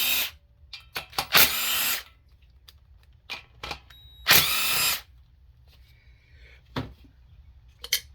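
Power drill or driver spinning a 3/8 socket in three short runs of about half a second each, backing out the valve cover bolts on a Briggs & Stratton engine, with small metallic clicks between the runs.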